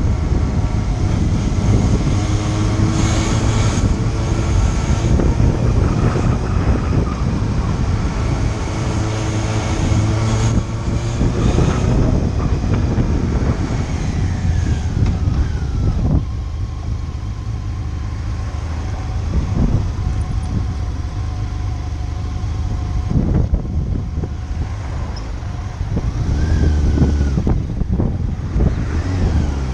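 Motorcycle engine running while under way, with road and wind noise. The engine note eases off about halfway through and climbs again near the end as the bike accelerates.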